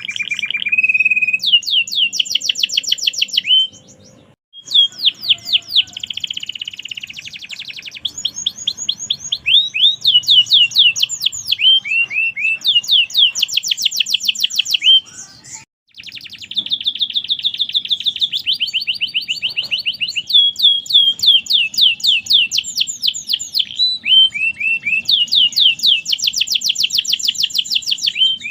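Domestic canary singing vigorously in rapid rolling trills of repeated downward-sliding notes, breaking off twice briefly.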